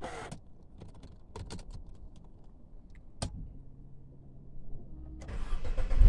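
A few sharp clicks as the ignition key is turned, a faint low hum with the ignition on, then about five seconds in the Mercedes C180's M271 four-cylinder engine cranks and starts, getting loud as it catches. The timing chain was replaced about 500 km earlier.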